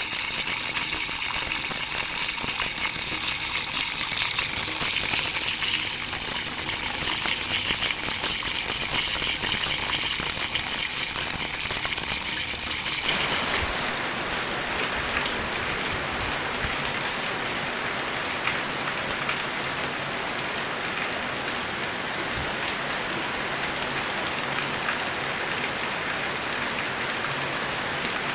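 Very heavy rain pouring down steadily. About thirteen seconds in the sound changes abruptly, becoming fuller and deeper.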